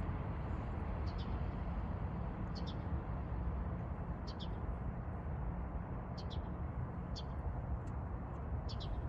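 A small bird chirping a short double note about every second and a half, over a steady low background rumble.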